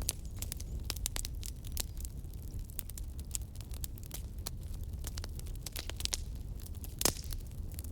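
Wood bonfire crackling: irregular sharp pops and snaps over a steady low rumble, with one louder pop near the end.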